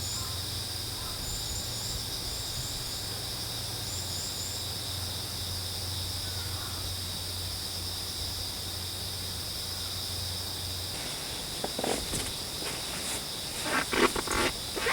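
Steady, continuous high-pitched trilling of an insect chorus, with a few short high chirps in the first few seconds. From about twelve seconds in, some close knocks and rustles join it, loudest near the end.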